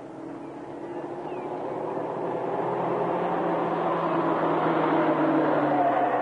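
Engine of an approaching vehicle running, growing steadily louder as it nears, its pitch dropping slightly near the end as it slows.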